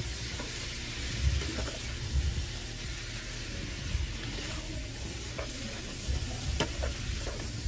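Chopped sheep offal (liver, lung, heart and stomach) sizzling in oil in a nonstick pan while a wooden spatula stirs it. A few scrapes and clicks of the spatula against the pan are heard over the steady sizzle.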